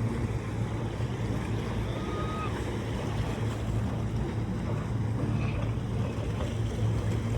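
Boat engine running with a steady low drone, under a wash of water and wind noise.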